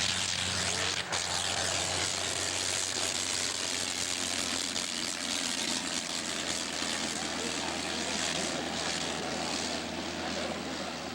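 Rotary engine of a 1915 Nieuport 11 running steadily, with a sharp click about a second in.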